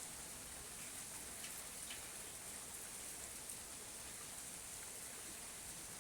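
Steady rain falling, with a soft even hiss and faint scattered drips.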